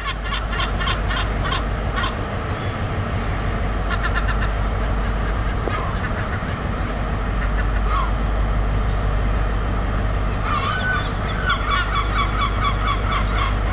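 Seagulls calling in several fast runs of loud, repeated notes, with shorter high squeals between them, over a steady low rumble.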